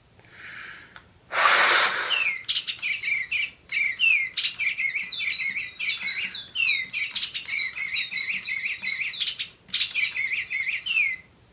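Spin Master Digibirds toy birds playing an electronic birdsong of quick, repeated gliding chirps, after a short, loud breathy blast about a second in.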